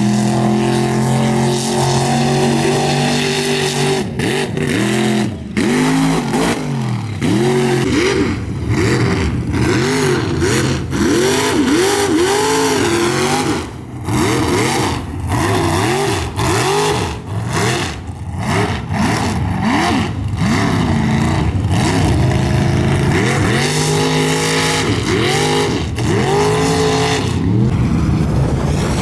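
Mud truck engine at high revs, the throttle worked up and down over and over so the pitch keeps rising and falling, holding steadier near the start and end.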